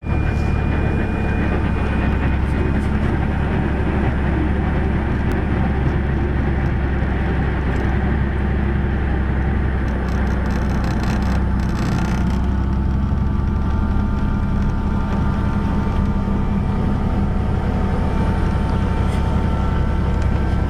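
Helicopter rotor and engine noise: a loud, steady drone with a deep hum and faint higher tones that shift slightly a little past halfway.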